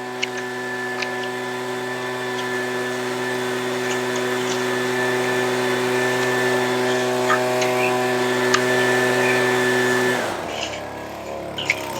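Gas-powered handheld leaf blower's small two-stroke engine running steadily at high throttle, then dropping in pitch about ten seconds in as it is throttled back toward idle. A few light clicks sound over it.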